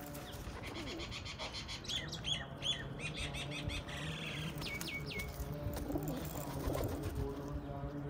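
Birds calling: a rapid run of repeated high chirps for about three seconds, then a few short downward whistles.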